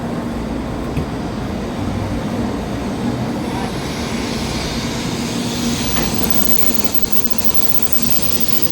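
A Shinkansen train moving at a station platform: a steady low rumble and hum, with a high hiss that swells from about three and a half seconds in.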